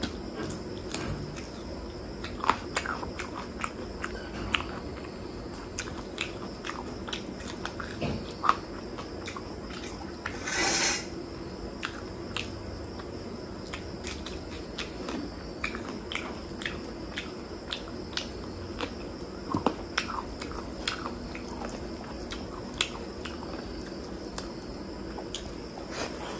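Close-miked eating sounds: chewing spicy chicken heart, liver and gizzard curry with rice, taken by hand, with many wet mouth clicks and smacks. There is one louder rushing noise, under a second long, about ten seconds in.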